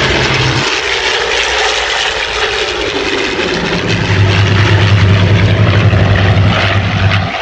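World War II piston-engine propeller warbird flying past, a steady engine drone with a low hum that fades out about a second in and comes back around four seconds in.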